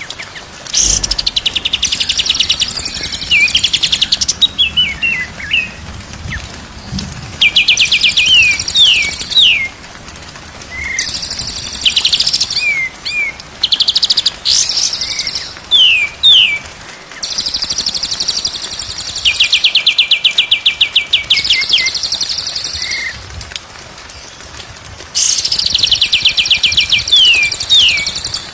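White-rumped shama (murai batu) singing in loud, repeated phrases of fast rattling trills and high buzzy notes, mixed with sharp down-slurred whistles, with short pauses between phrases.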